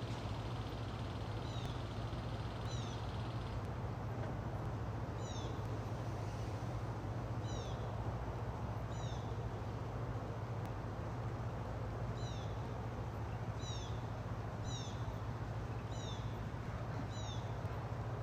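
Steady hiss of rain with a low hum underneath, and short high-pitched chirps that fall in pitch, often in pairs, every second or so.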